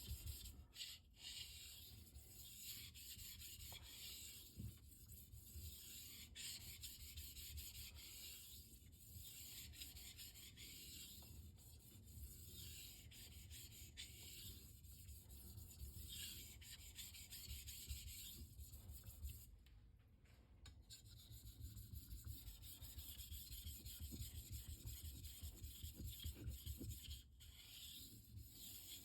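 Steel knife edge drawn in faint, slow, light strokes across a Shapton Rockstar 1000-grit whetstone, about one stroke every two to three seconds, to take off the fine burr left by sharpening.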